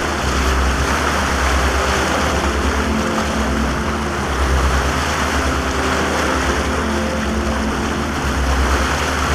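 A boat's engine running at speed, with wind and rushing water over it.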